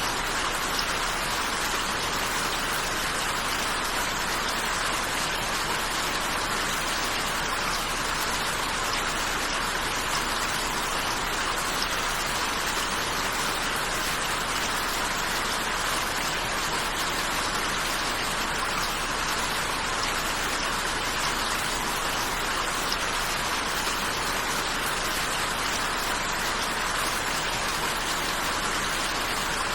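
Rain falling steadily, an even hiss with no single drop or gust standing out, strongest in the middle pitches.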